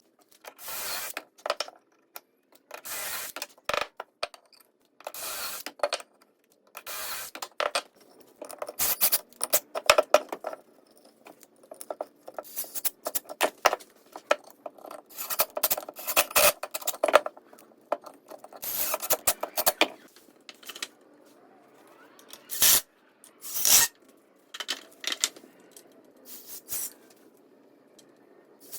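Hand work on 2x4 lumber: short, irregular bursts of wood scraping and rubbing, with two sharp knocks about two-thirds of the way through.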